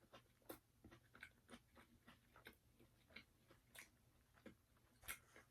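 Faint close-miked chewing of a crispy fried chicken sandwich: soft crunches and wet mouth clicks, a few a second and irregular.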